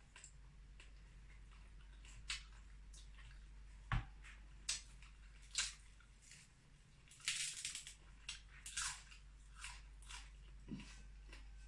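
A person eating close to the microphone: irregular short wet clicks and smacks of chewing, loudest about four seconds in and again around seven to nine seconds in.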